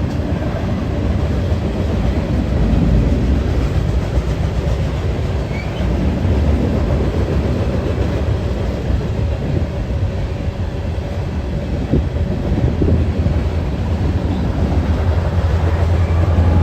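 A train rolling past with a steady low rumble and a few faint clicks.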